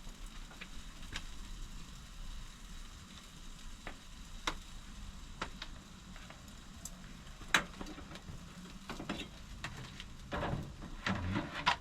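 Jerk chicken legs sizzling on a barbecue grill over a fire: a steady hiss broken by scattered sharp pops and crackles, the loudest about two-thirds of the way in.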